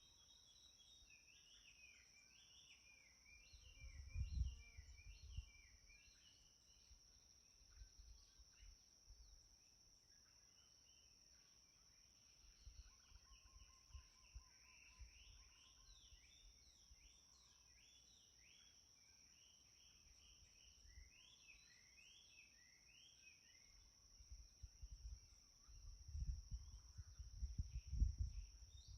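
Small birds chirping softly, many short overlapping chirps all through, over a steady high-pitched drone. Low rumbles come about four seconds in and again near the end.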